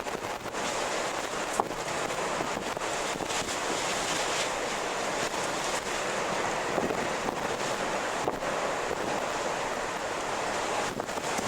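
Wind blowing steadily, an even hiss with a few short clicks and ticks scattered through it.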